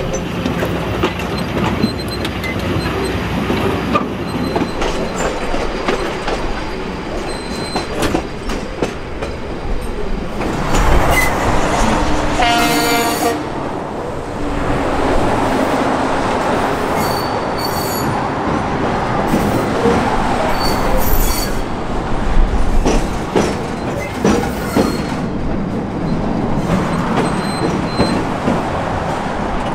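Heritage train running along the line, with a steady rumble of wheels on rail. About twelve seconds in the horn sounds once, for roughly a second, and later the wheels squeal with short, high-pitched squeals several times.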